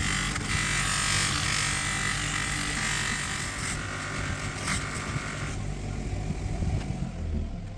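A small electric power tool running with a buzzing hiss; the high hiss drops away about five and a half seconds in.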